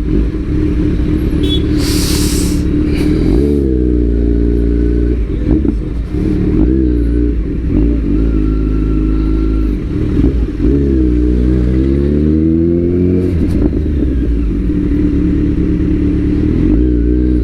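Superbike engine heard from the rider's position while riding in traffic, a steady note with the revs rising and falling a couple of times as it accelerates and shifts. Constant low wind rumble over the microphone, with a brief hissing burst about two seconds in.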